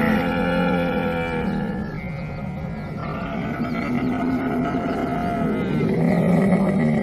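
Camel groaning and bellowing: a long, deep, rumbling call that eases off about two seconds in and swells again near the end.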